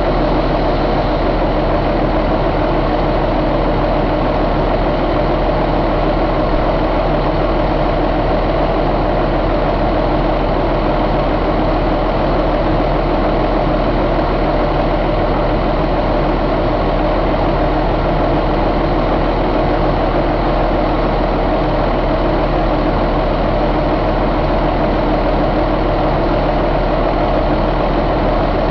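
2005 Cummins ISX inline-six diesel engine idling steadily.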